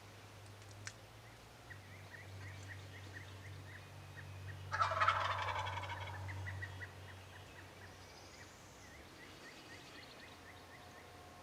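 Wild turkey gobbler gobbling once about five seconds in, a loud rapid rattling call lasting about two seconds.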